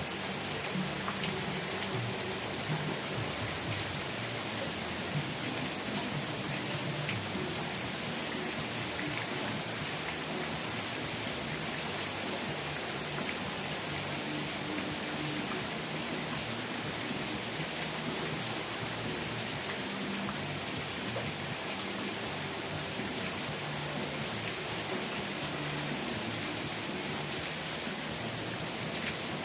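Steady rain falling, an even hiss of rain on a surface with scattered individual drop ticks.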